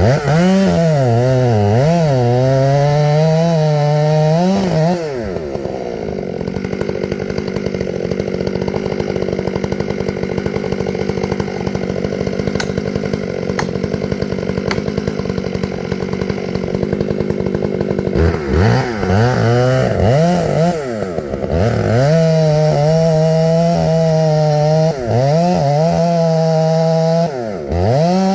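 Gas chainsaw revving high with its pitch sagging and recovering as it cuts wood, then dropping to a steady idle for about thirteen seconds before revving and cutting again in several surges.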